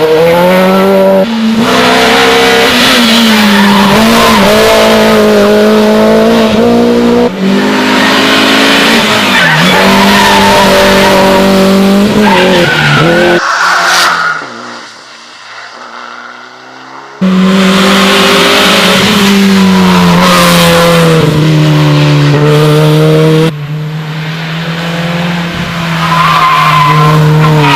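Rally cars at full throttle on a special stage, engines revving hard with pitch climbing and dropping through gear changes, in a series of cut-together passes. There is a quieter stretch in the middle, a few seconds long.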